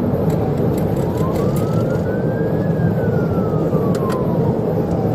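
Police car siren wailing, one slow rise and then a long fall in pitch, over the steady loud rumble of a patrol car driving at high speed.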